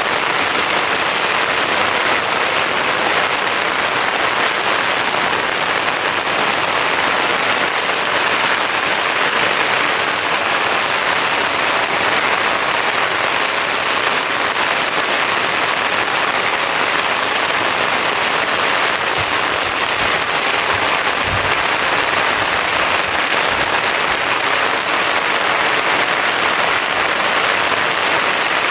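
Steady, heavy rain falling, an even hiss dotted with the sharp ticks of individual drops.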